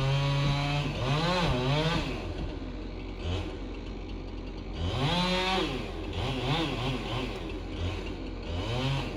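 Two-stroke chainsaw making the back cut to fell a tree, its engine revving up and down over and over as it cuts, a little quieter for a few seconds in the middle.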